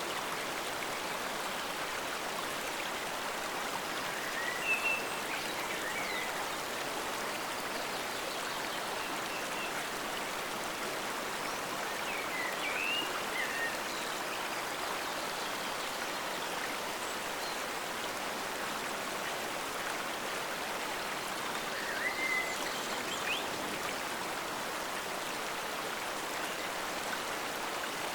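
A forest stream flowing steadily with a constant rushing sound. Short, high chirps break through three times, which are also the loudest moments.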